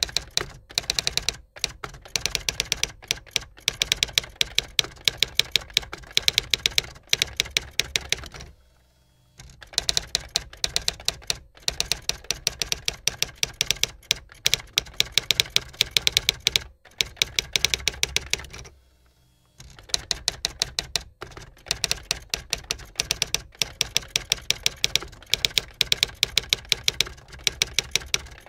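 Typewriter keys clacking rapidly and evenly, a typing sound effect, in long runs broken by two short pauses, about nine and nineteen seconds in.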